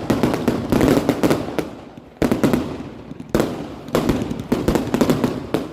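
Fireworks going off: three loud bursts, at the start, about two seconds in and about three and a half seconds in, each followed by a run of crackling pops that fades away.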